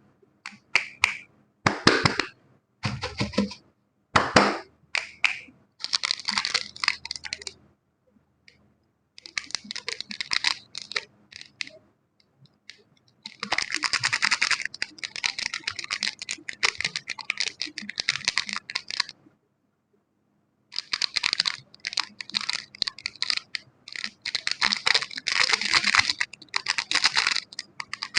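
Close-up crisp scratching and crackling in bursts, short ones at first and then longer runs of several seconds, broken by short silent gaps.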